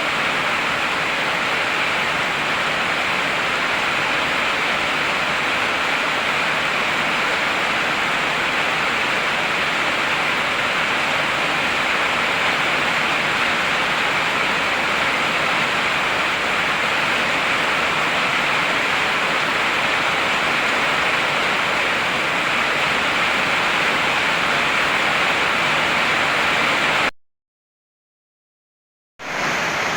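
Heavy rain falling as a steady, even hiss. About 27 seconds in it cuts out to dead silence for about two seconds, then resumes.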